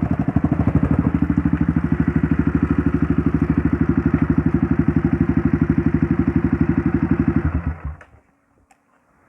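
Trail motorcycle engine idling with an even, fast pulsing beat, then switched off about eight seconds in.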